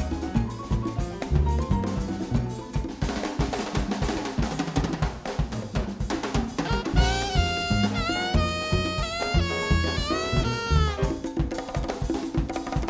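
Live jazz band: a drum kit and bass play steadily, and a horn comes in about halfway with a short melodic phrase of bending notes before dropping out again.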